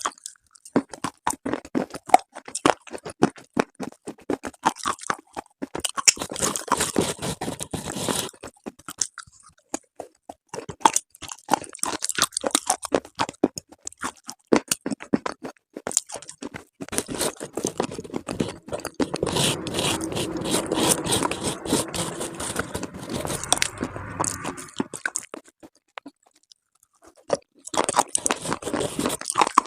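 Close-miked biting and chewing of crunchy slate: many sharp crunches one after another. In the middle stretch the chewing turns denser and fuller, and it pauses briefly near the end before the crunching starts again.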